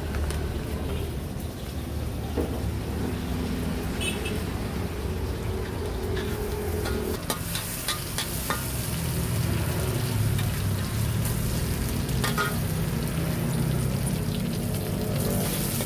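Fried rice sizzling in a wok as it is stirred, with a few sharp clicks of the spatula against the pan.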